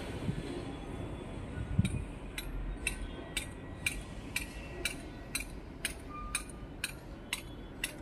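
Low rumble of an electric commuter train pulling away, with sharp metallic clinks at an even pace of about two a second, each with a short ring, starting about two seconds in.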